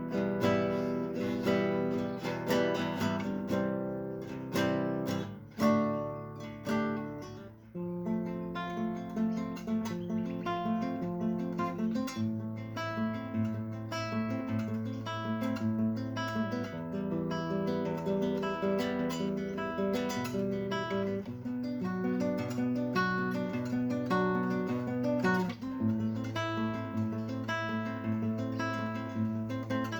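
Acoustic guitar music: plucked and strummed notes over a bass line that changes every few seconds.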